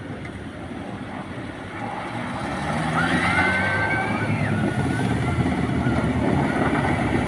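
Tour jeep's engine running steadily, getting louder about two to three seconds in. A brief high tone rises and falls about midway.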